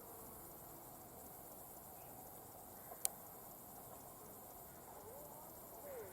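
Faint steady high chirring of insects such as crickets in open countryside. A single sharp click comes about three seconds in, and a couple of faint wavering calls, rising and falling in pitch, come near the end.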